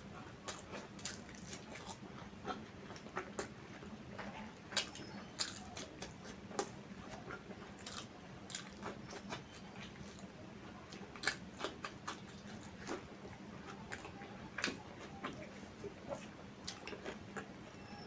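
A person chewing food close to the microphone, with irregular wet mouth clicks and smacks several times a second.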